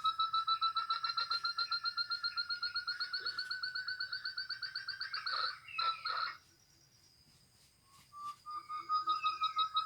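Recorded call of a hill partridge (puyuh gonggong) played on a loop as a lure: a long run of fast, evenly repeated whistled notes, slightly rising in pitch. It breaks off about six and a half seconds in and starts over after a pause of about two seconds.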